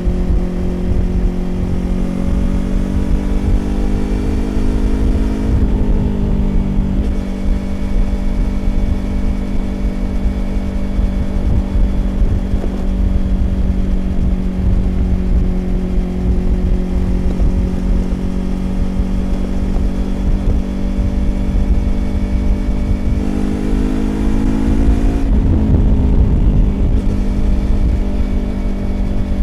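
Yamaha YZF-R25's parallel-twin engine through a Prunus aftermarket exhaust, ridden at speed. The revs climb and drop at an upshift a few seconds in, hold steady for a long stretch of cruising, then climb and drop at another upshift near the end. Wind rumbles on the microphone throughout.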